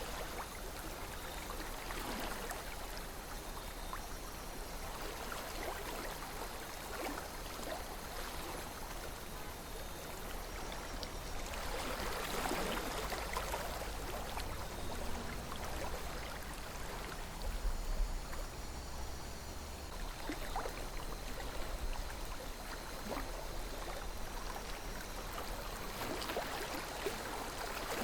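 River water flowing steadily with small splashes and gurgles, swelling a little louder about halfway through.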